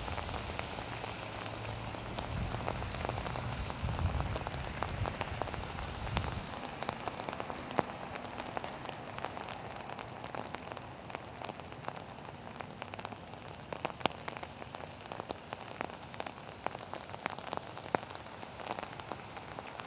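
Steady rain falling, with many sharp drop impacts ticking close by. A low rumble sits under it for the first six seconds or so.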